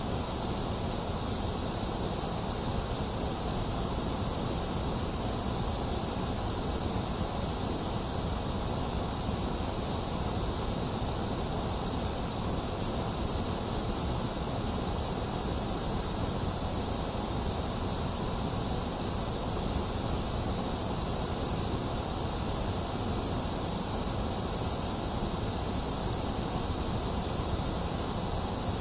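Box fan running together with steady rain: an even, unchanging rushing noise with no distinct drops, gusts or thunder.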